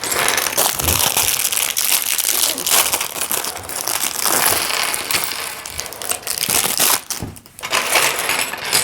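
Loose plastic Lego bricks clattering and a plastic parts bag crinkling as they are handled: a dense, continuous rattle and rustle of small clicks that dips briefly about seven seconds in.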